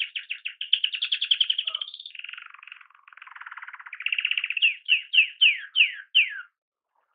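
Canary singing: a run of rapid repeated notes, then a fast trill and a slower series of falling notes, stopping shortly before the end.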